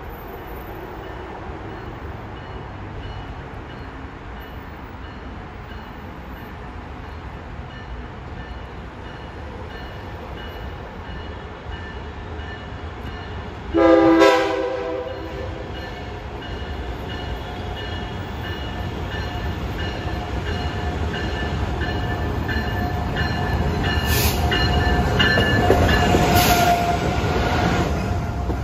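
Amtrak Acela high-speed trainset approaching: a steady distant rumble, then one short horn blast about halfway through. After the blast the rumble grows louder as the train passes close by near the end.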